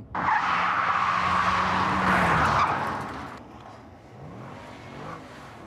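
A car's tyres skidding loudly for about three seconds over a steady engine note, then cutting off. A quieter engine note rises briefly about four seconds in.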